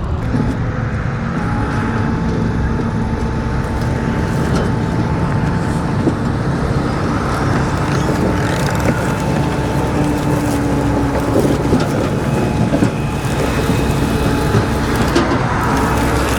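Steady motor-vehicle engine and road noise, continuous throughout, with faint steady whining tones over it.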